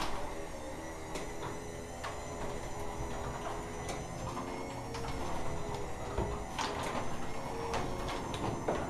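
A door opening with a motor running steadily, rattling and clicking as it goes.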